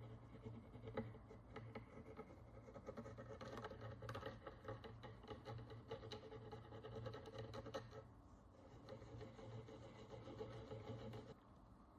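Faint, close scraping and ticking of a hand tool picking and rubbing encrusted oxidation and dirt off a small bronze coin, over a steady low hum. The scraping eases briefly about two-thirds of the way through.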